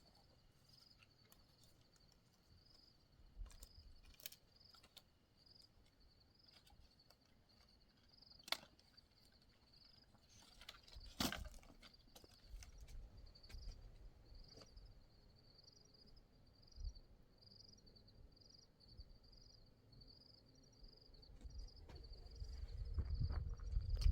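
Insects, likely a cricket, chirping steadily at night in a high, even pulse of one to two chirps a second. Scattered sharp clicks, one louder about eleven seconds in, and a low rumble that builds near the end.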